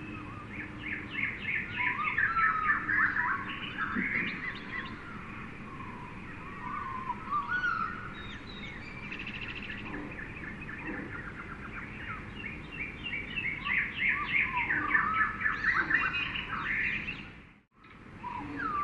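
Jungle ambience of many birds chirping and trilling over one another, over a steady low background hiss. The sound briefly dips out near the end, then resumes.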